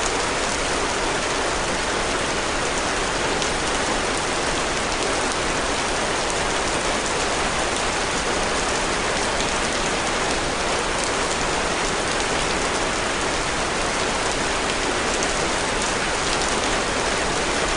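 Steady rain: an even, unbroken wash of noise with fine drop ticks all through, holding the same level with no change.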